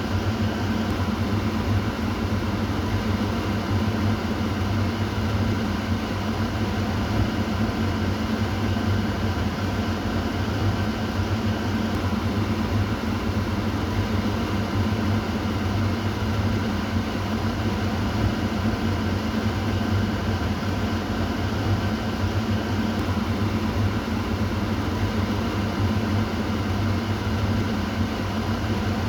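Kitchen exhaust fan running steadily: an even whoosh of air over a constant low motor hum.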